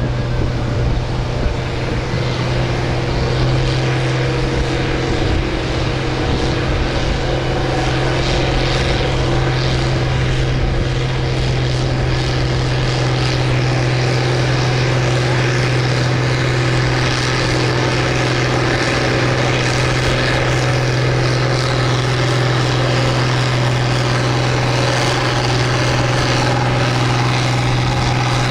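Farm tractor engine held at steady full throttle under heavy load while pulling a weight sled, a constant deep drone whose pitch barely changes. It drops off abruptly at the very end.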